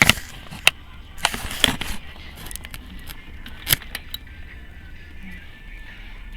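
Scattered sharp clicks and knocks of hands and tools working on a motorcycle engine, with a camera being set in place, over a low steady hum.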